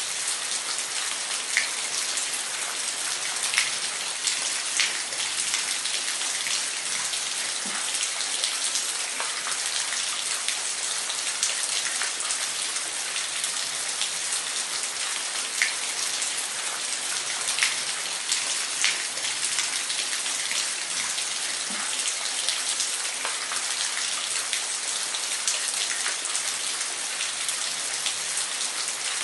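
Waterfall: a steady rush of falling water, with small splashes and drips standing out here and there.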